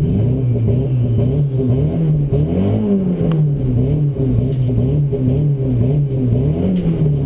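Saab 900 drag car's engine heard from inside the cabin, running under light throttle with its pitch rising and easing off, once about three seconds in and again near the end.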